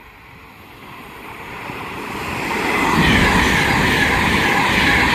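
Class 390 Pendolino electric train approaching at speed on the main line, growing steadily louder over the first three seconds, then passing close by with a loud, steady rush.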